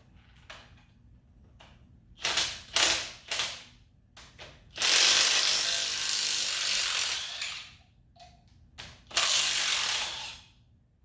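Ratchet wrench clicking in bursts: three short runs, then a longer run of about three seconds, then another near the end.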